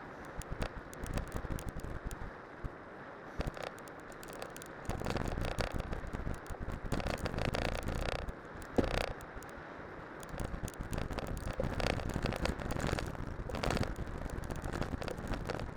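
Cyclocross bike on studded winter tyres rolling downhill over a snowy road: steady tyre noise with dense crackling and clicking, and the bike rattling over bumps. It gets louder from about five seconds in.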